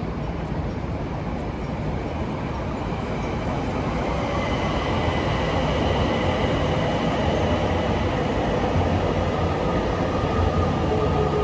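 A passing train: steady running rumble and hiss that slowly grows louder, with several steady whining tones coming in about four seconds in.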